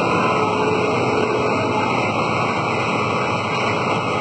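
Steady, loud rushing roar of tornado-strength wind, continuous and without gusting breaks.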